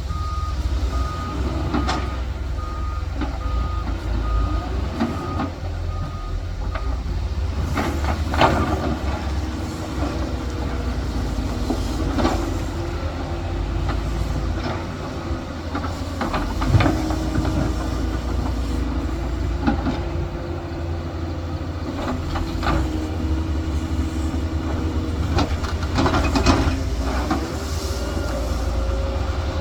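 Heavy construction machinery, an excavator and a dump truck, with diesel engines running steadily. A reversing alarm beeps repeatedly for about the first seven seconds. Occasional sharp metallic knocks sound over the engine noise.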